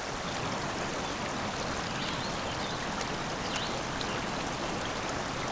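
Steady rushing of running water, like a stream, with a few faint high chirps.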